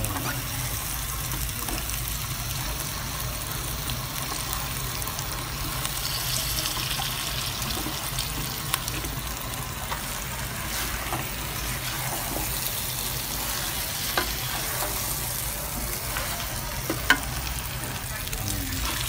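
Chicken and potato pieces sizzling in oil and fried curry paste in a wok, stirred and turned with a wooden spatula, with a few scrapes and knocks against the pan, a sharper knock near the end.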